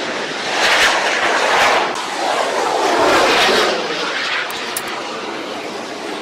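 Fighter jet engine noise, loud and rushing, with a tone that slides down in pitch through the middle.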